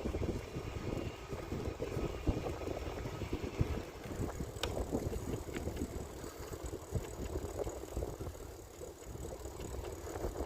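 Bicycle being ridden: tyre rumble on the path with the bike rattling over small bumps, and one sharp click about halfway through. A thin high tone runs faintly after the click.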